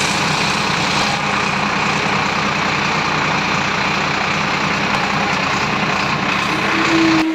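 Tractor diesel engine running steadily at a low, even speed, cutting off suddenly just before the end.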